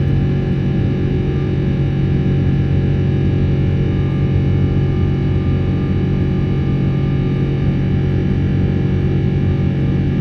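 Rolls-Royce Trent 800 turbofans of a Boeing 777-300 heard from inside the cabin: a loud, steady engine drone made of many fixed whining tones over a deep rumble, holding constant pitch throughout.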